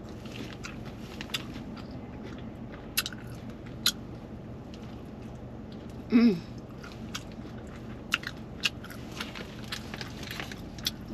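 Close mouth sounds of a person biting and chewing a large burrito, with many scattered short wet clicks and smacks. About six seconds in, a short vocal sound rises and falls in pitch; it is the loudest thing heard.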